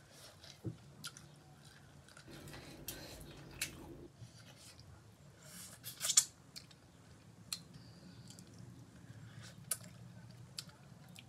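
A person eating mutton curry by hand: chewing and wet mouth sounds with scattered small clicks, the loudest a short sharp cluster about six seconds in as she bites into a piece of meat.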